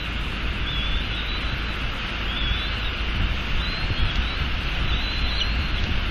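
Steady hiss of rain and wind on the nest camera's microphone. Faint, short, high chirps come through about every second and a half.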